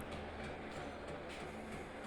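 Steady low hum and hiss of background room noise, with a few faint ticks.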